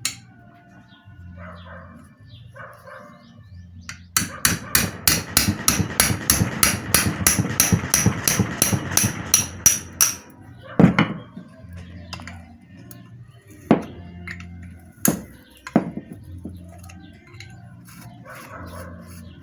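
A small hammer striking metal in a rapid series of about four blows a second for some six seconds, then a few single knocks. The blows are meant to free a seized bolt on the water-pump casing.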